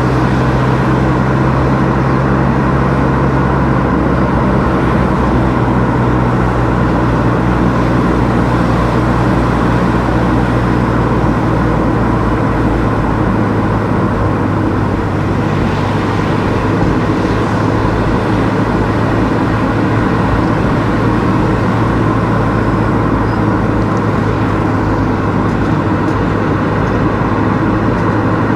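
A car being driven: a steady low engine hum over tyre and road noise, the engine note shifting twice.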